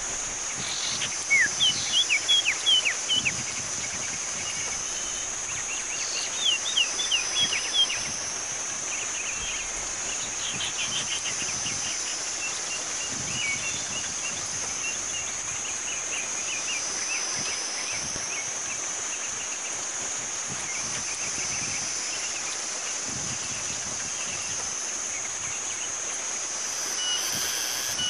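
A small bird calling in quick runs of short, sharp falling chirps, loudest in two bursts in the first eight seconds and scattered more loosely after. Under it, a steady high-pitched insect drone swells and fades slowly.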